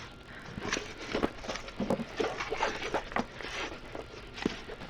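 Irregular crackling and light tapping from a diamond painting canvas being handled and unrolled.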